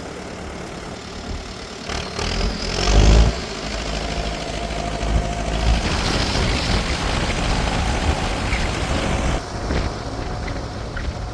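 Kubota 8950 diesel tractor engine running. About two seconds in it picks up, with a brief loud surge around three seconds, then holds steady under load.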